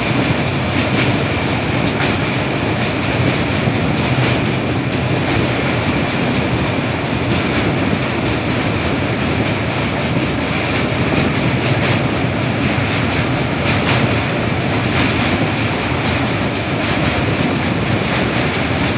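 A train running over a steel truss bridge, heard on board as a steady loud rumble and rattle with faint, irregular clicks from the wheels.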